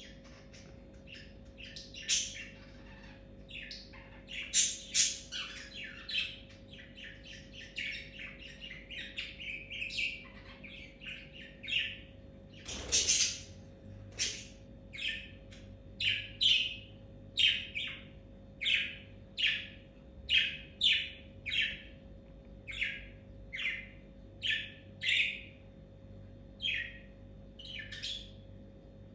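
A bird chirping over and over in short sharp calls, at first rapid and jumbled, then settling into a steady run of single chirps about one a second, with one louder, longer squawk about halfway through.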